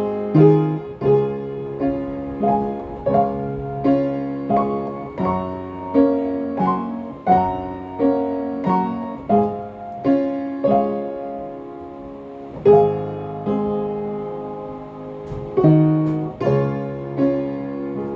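Solo piano music: a slow melody over chords, each note struck and left to ring away.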